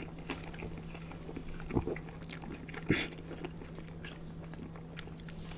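Close-miked chewing and biting of fast food, soft wet mouth sounds with a couple of sharper crunchy clicks about two and three seconds in, over a steady low hum.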